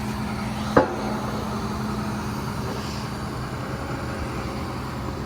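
Machinery engine running steadily at idle, with one sharp knock about a second in.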